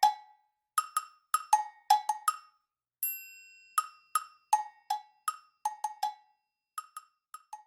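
Background music: a light tune of wood-block knocks at two alternating pitches, about two or three a second, with a single ringing chime about three seconds in.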